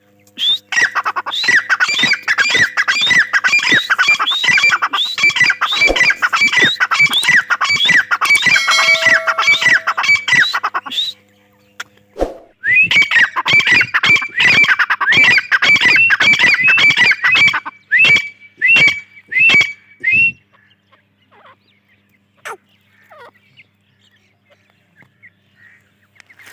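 Grey francolin calling: a long, fast run of repeated shrill, upward-sliding notes, breaking off briefly near the middle. It resumes, slows into a few spaced notes, and stops well before the end.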